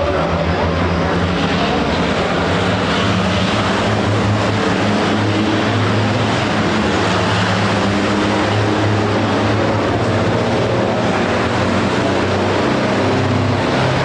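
Racing trucks' big diesel engines running, a loud steady low drone with engine notes that shift slowly in pitch.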